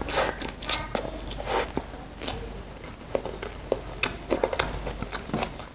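A person chewing a mouthful of rice and greens eaten by hand, with many short wet clicks and smacks of the mouth.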